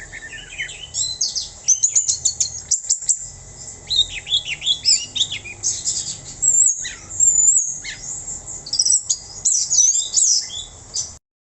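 Orange-headed thrush singing a rapid, varied song of quick high whistles, sweeps and chattering notes, cutting off abruptly near the end.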